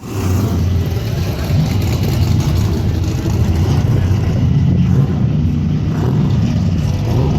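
Muscle car engine running steadily, low-pitched and loud.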